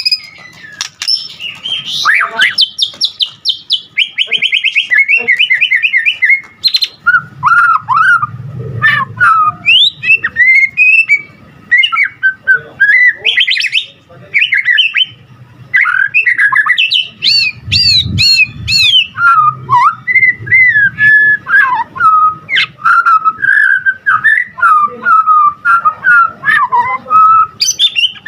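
White-rumped shama singing a continuous, varied song of rapid trills, whistled slurs and chattering phrases, with no pauses. It is the full song stuffed with other birds' calls that keepers call "full isian".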